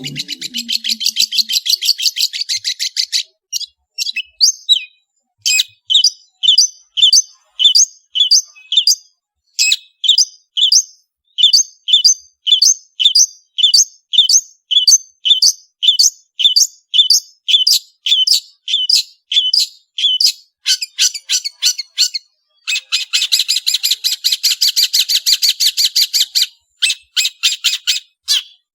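Long-tailed shrike (cendet) singing a fast, harsh chattering rattle, then a long run of sharp, evenly repeated high chirps at about two a second. Near the end comes another fast rattle.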